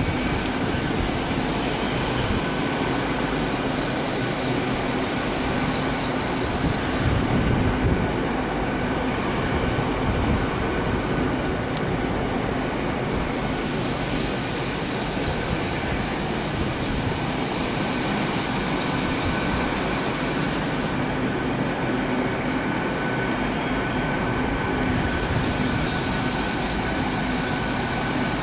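A long GWR passenger train running slowly along the far lines: a steady rumble of wheels on rail with a thin steady high tone and a low hum, and a hiss that fades out and back in twice.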